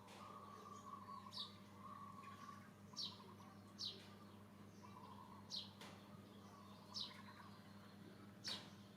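Faint bird chirps: six short, high notes, each sweeping quickly downward, spaced one to two seconds apart, over a steady low hum.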